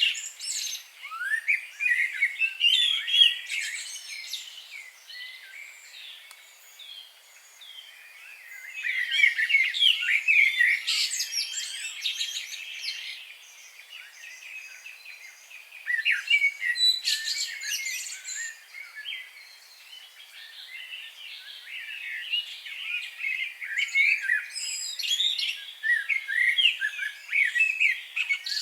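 Songbirds chirping and singing, many short calls and trills overlapping in busy spells with quieter lulls between them.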